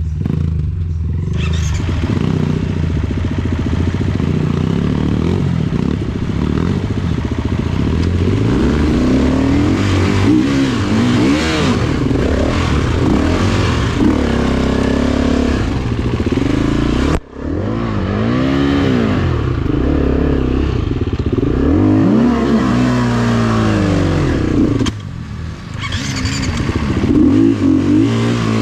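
Dirt bike engine revving up and down as it is ridden on a trail, its pitch rising and falling again and again. The sound cuts out for a moment about 17 seconds in, and dips again a few seconds before the end.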